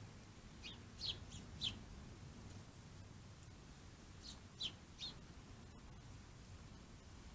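A bird calling with short, high, falling chirps: a group of four about a second in, and another group of three a little past four seconds.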